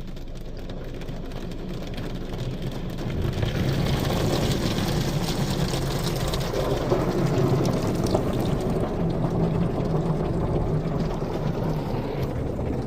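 Istobal M'Wash 3 rollover car wash applying its foam (mousse) stage, heard from inside the car: a hiss and patter of spray on the body and glass over the low hum of the gantry's machinery, swelling louder about three seconds in.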